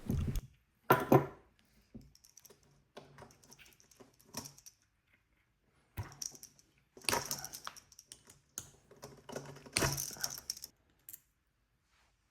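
Irregular clicks, clinks and short scrapes of tools and small metal parts as the overpressure hose and overpressure valve are worked off a Gaggia Classic espresso machine boiler, with louder bursts about a second in, around seven seconds and around ten seconds.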